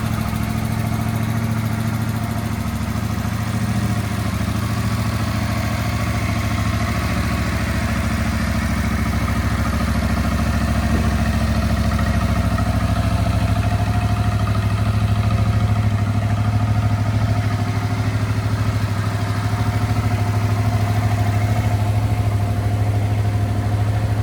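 Yamaha MT-07's 689 cc parallel-twin engine idling steadily.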